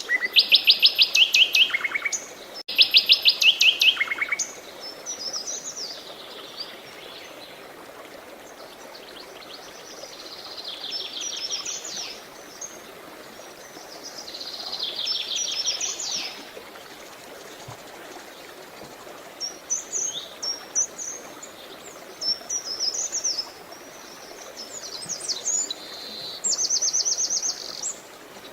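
Songbirds singing: two loud, rapid trills in the first four seconds, then quieter phrases every few seconds and a shorter fast trill near the end. Beneath them runs a steady hiss of running water.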